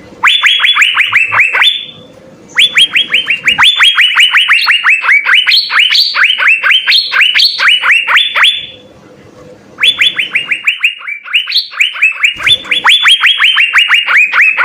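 Asian fairy-bluebird (cucak biru) singing in fast runs of sharp, downward-sliding whistled notes, about five a second. There are three bouts, broken by short pauses about two seconds in and about nine seconds in.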